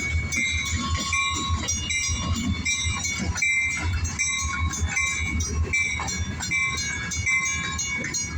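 Diesel freight locomotive running under load, a heavy low rumble, as it pulls a cut of freight cars. Short high squeals recur every half-second or so, with occasional clanks.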